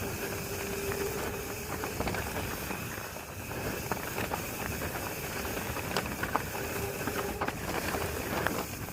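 Mountain bike riding over a trail: a steady rush of wind on the microphone with tyre noise, broken by scattered sharp clicks and rattles from the bike over bumps.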